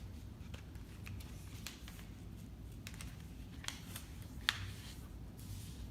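A sheet of paper being folded and creased by hand: faint rustles and crinkles, with a sharper crackle about four and a half seconds in.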